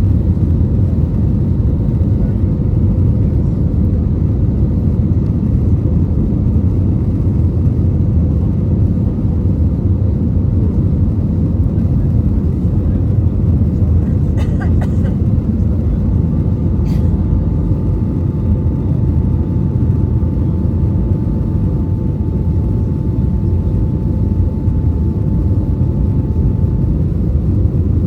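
Steady low rumble inside the cabin of an Airbus A320neo with CFM LEAP-1A engines, engine and airflow noise with a faint steady hum over it. Two brief clicks come about halfway through, and a second faint tone holds through much of the second half.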